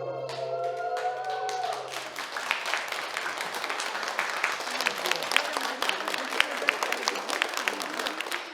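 The band's last held notes die away, and an audience applauds with many hands clapping steadily.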